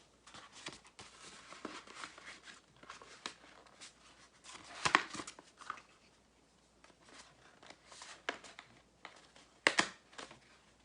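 Sheets of paper rustling and crinkling as they are handled and gathered together by hand, with two louder crackles, about five seconds in and near the end.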